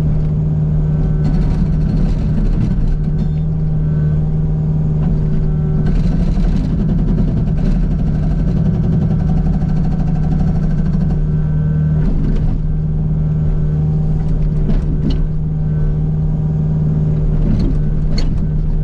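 Kubota U55 mini excavator's diesel engine running steadily under hydraulic load. About a second in and again around six seconds in, the Agrotk hydraulic breaker hammer rattles off rapid blows against sand rock, with scattered sharp knocks later.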